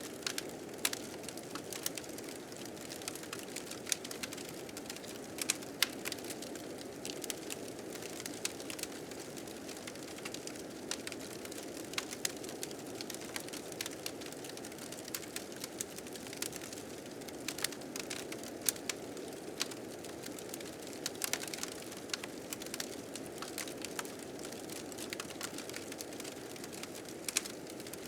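Blizzard wind blowing steadily, with a fire crackling over it in irregular sharp pops.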